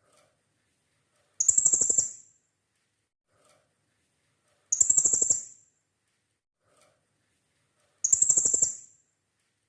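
Blue-crowned hanging parrot (serindit) giving a fast chattering trill of sharp, high-pitched notes, about a second long and repeated three times at even spacing of roughly three seconds, with a faint soft note between each trill.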